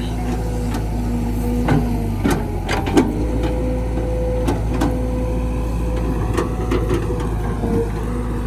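Heavy diesel machinery running steadily, a low rumble with a steady whine over it, and scattered sharp knocks and clanks, the loudest about three seconds in.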